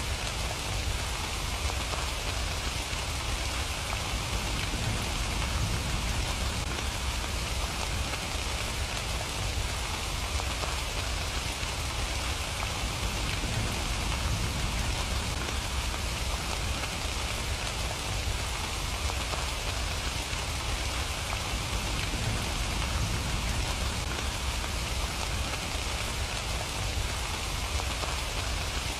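Steady, heavy rain falling: an even, unbroken hiss with a low rumble underneath.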